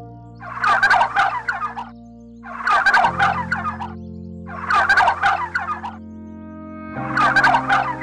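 A bird's loud rattling call repeated four times, about every two seconds, each call about a second long. Beneath it, soft background music of held chords.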